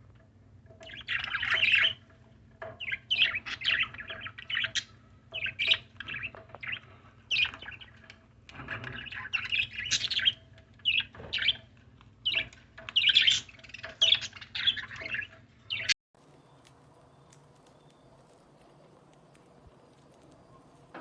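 Pet birds chirping in rapid runs of short, high calls for about sixteen seconds, then the sound cuts off abruptly to faint room tone.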